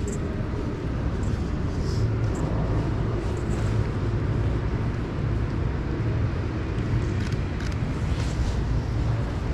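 Steady low rumble of city or station ambience, with a few faint clicks and clatters on top.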